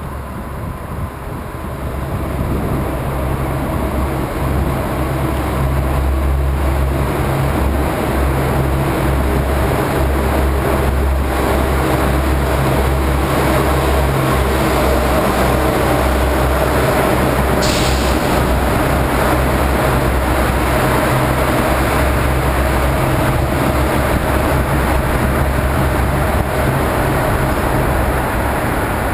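Steady, loud rumble of highway traffic and wind noise on the microphone as heard from a moving bicycle, building over the first couple of seconds and then holding. There is one brief high-pitched sound about eighteen seconds in.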